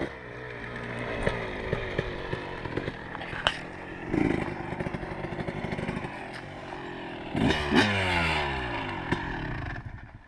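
2003 Kawasaki KX250 two-stroke motocross engine running at low revs, with scattered clicks. It swells about four seconds in and is blipped again around seven and a half seconds, the pitch falling back, before fading out near the end.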